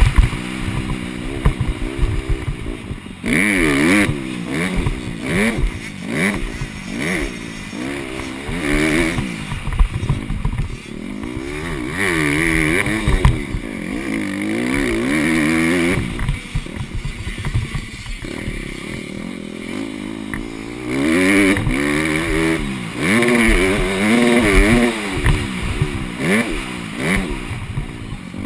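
Honda CRF150R dirt bike's four-stroke single-cylinder engine revving hard, its pitch climbing and dropping again and again as the rider accelerates, shifts and rolls off.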